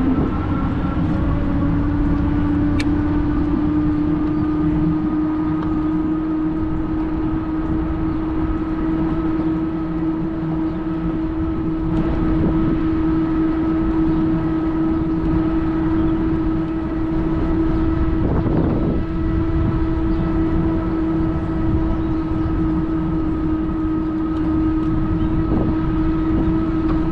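Electric Bike Company Model R fat-tire e-bike riding along: a steady whine that climbs in pitch as the bike picks up speed at the start, then holds level, over a constant low rumble of fat tyres and wind.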